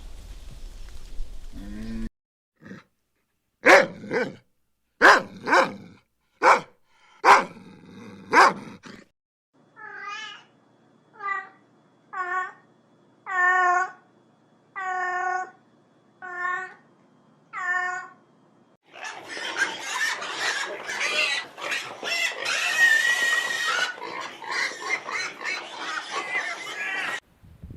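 A series of animal calls: a few short, sharp calls, then about eight evenly spaced pitched calls, then a dense run of overlapping calls.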